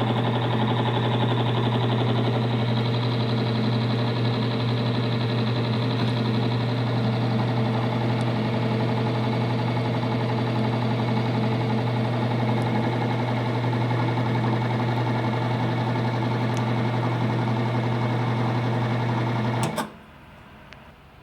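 Electric motor of a bearing friction and wear test rig running steadily with a strong even hum, driving the test bearing. It cuts off suddenly near the end.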